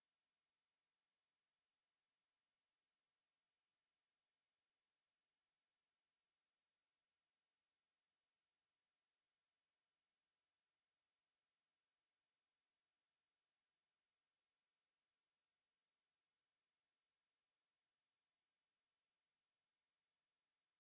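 A steady, high-pitched 7108 Hz sine-wave test tone, one pure pitch held at a constant level.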